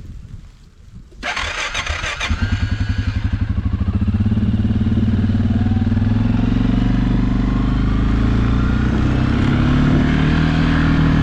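Suzuki KingQuad ATV engine pulling away in the snow. A burst of hiss comes about a second in, then the engine's firing pulses quicken as it accelerates and settle into a steady run at speed.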